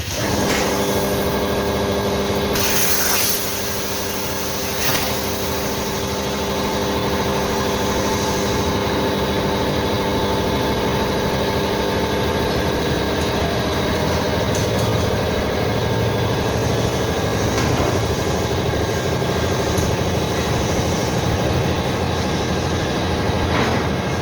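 Machinery running with a steady mechanical hum of several held tones over a noisy bed, with a short burst of hiss about three seconds in.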